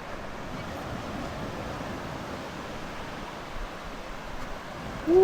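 Steady wash of surf breaking on a beach, an even noise with no distinct events.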